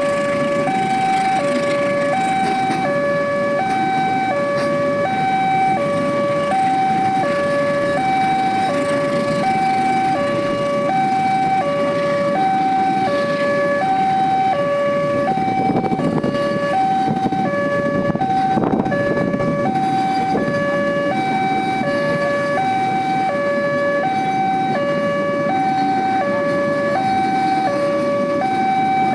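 Railway level crossing warning alarm sounding a steady two-tone electronic signal, alternating high and low notes in an even rhythm, over a constant low rumble.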